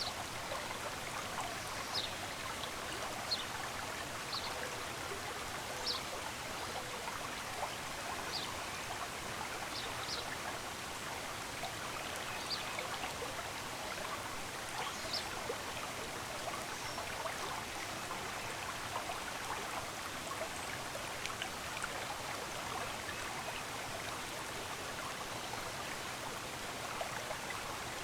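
A small stream runs steadily with a continuous rushing and trickling. Short, high bird chirps come every second or two over the first half and then thin out.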